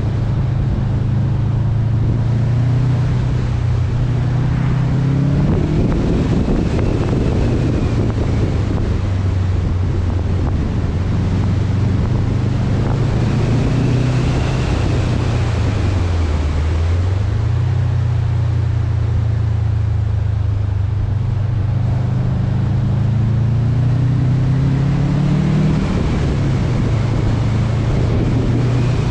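Subaru WRX STI's turbocharged flat-four running through an Invidia N1 exhaust while driving, with heavy wind and road noise on the microphone. The engine note dips briefly about halfway through and climbs over a few seconds near the end, then drops again.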